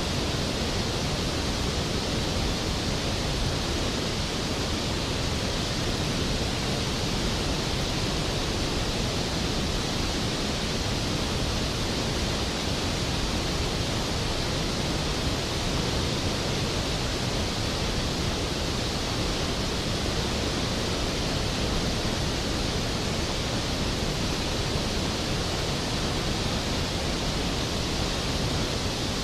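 Skógafoss waterfall's heavy, steady rush of falling water, an even unbroken roar with no change in level.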